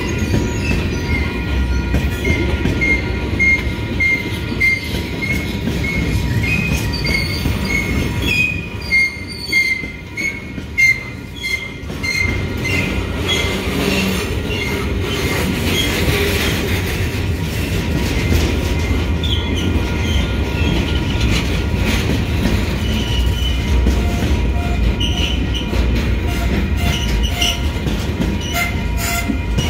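Freight train of flat cars rolling slowly past: a steady rumble of wheels with squeal and clickety-clack over the rail, and a few louder clanks about ten seconds in. A grade-crossing warning bell dings about twice a second over it.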